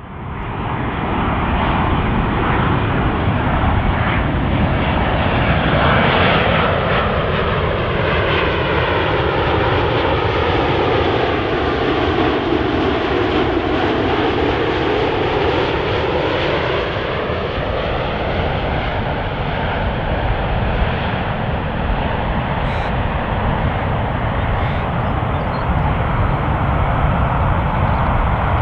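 Boeing 787-8 Dreamliner with GEnx jet engines flying past: a steady, loud jet engine sound whose hollow tone sweeps down and back up as the aircraft passes, around the middle.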